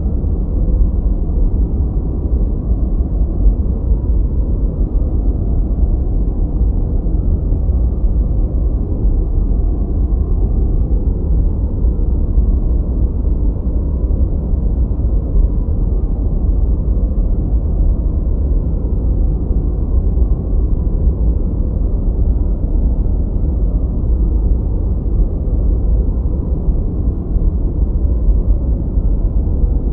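Continuous synthetic noise played as a white-noise masking track, steady and unchanging. It is deep and rumbling with hardly any hiss, its sound sitting mostly in the low end, more like brown noise than true white noise.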